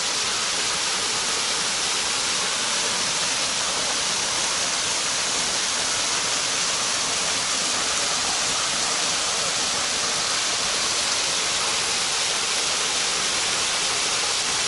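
Waterfall rushing steadily, with loud even white water.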